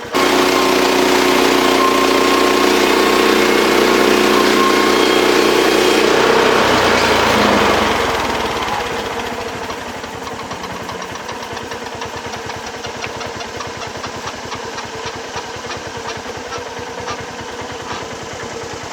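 Gas engine of a portable sawmill running at high speed under load, loud and steady, then winding down between about seven and ten seconds in to a quieter, steady idle.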